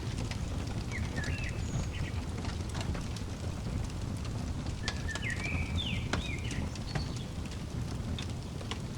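Fireplace crackling, a steady low rumble under scattered pops, while a songbird chirps in two short flurries of notes, about a second in and again around five seconds in.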